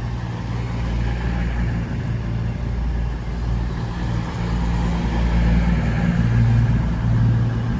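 Class 221 Super Voyager diesel-electric multiple unit, a double set, drawing into the platform with its underfloor diesel engines running steadily; the low engine sound grows a little louder in the second half.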